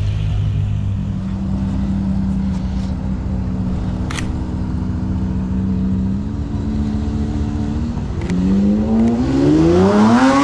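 Car engines running steadily at low revs. From about eight seconds in, a Lamborghini Aventador SVJ's V12 revs up with a rising pitch and grows louder as it accelerates past.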